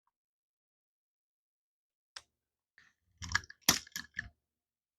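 Light metallic clicks and scrapes of a screwdriver working a small jet out of a snowblower carburetor: one click about two seconds in, then a quick cluster of clicks and scrapes.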